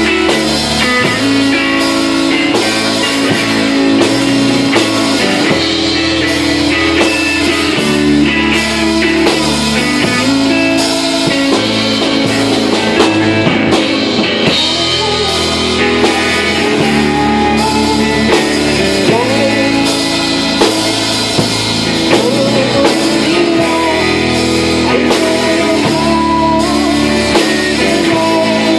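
Live rock band playing a song: electric guitar, bass and drum kit, with a melody line that bends and wavers.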